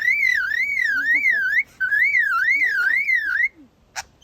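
Australian lyrebird mimicking an electronic alarm: a loud, siren-like whistle that swings up and down a little over twice a second. It breaks off briefly about a second and a half in, then stops, and a sharp click follows near the end.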